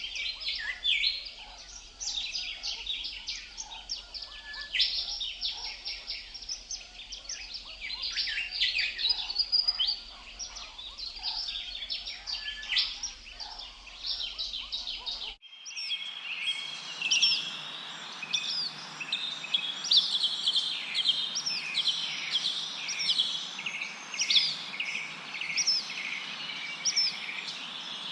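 Songbirds chirping and singing in a dense, busy chorus of quick calls. About halfway through, the recording cuts abruptly to another stretch: repeated sweeping chirps over a steady hiss of wind rustling through leaves.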